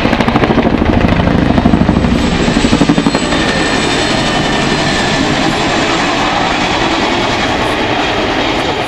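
Boeing Chinook tandem-rotor helicopter flying its display, the rotor blades beating in a fast, loud pulse that peaks about two to three seconds in, then easing into a steadier rushing rotor and engine noise.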